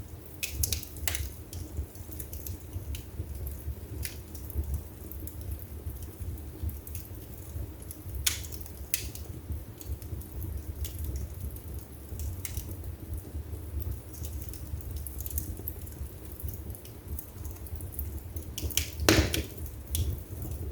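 Wood fire burning in a fireplace: a low steady rumble of flames with scattered sharp crackles and pops, the loudest pop near the end.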